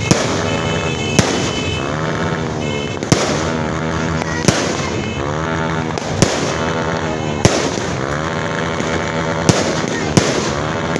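Aerial fireworks bursting: about eight sharp bangs at uneven intervals, over a continuous background din.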